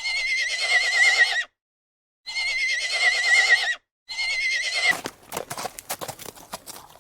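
Horse whinnying three times, each call about a second and a half long with a wavering pitch, then hooves clip-clopping in quick irregular clicks.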